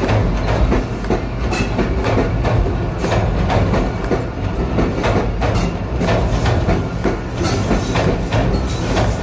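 A train running on the track, its wheels clattering with repeated knocks over a steady low rumble.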